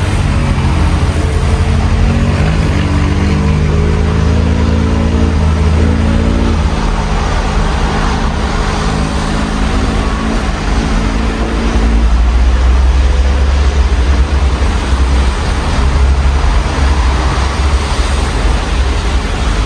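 Street traffic in the rain, heard through an open window: a car engine accelerating and changing pitch over the first several seconds, over a steady hiss of rain and wet tyres, with a deeper low rumble of passing traffic from about twelve seconds in.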